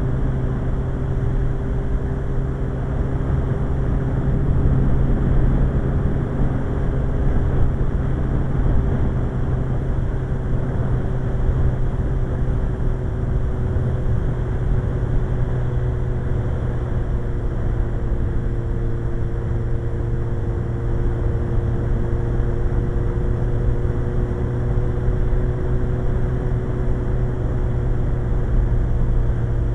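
Suzuki GSX-R1100 inline-four motorcycle engine running at a steady cruise, its pitch barely changing, under a constant rush of wind over the microphone.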